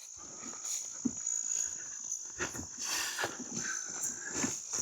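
Insects, crickets or cicadas, chirring steadily in a high-pitched chorus, with irregular soft rustles and knocks close by.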